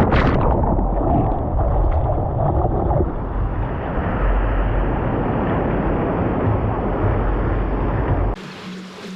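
Ocean surf and wind rushing loudly over the microphone, a dense, muffled roar of water with a heavy low rumble. It cuts off abruptly near the end to a much quieter background with a faint steady hum.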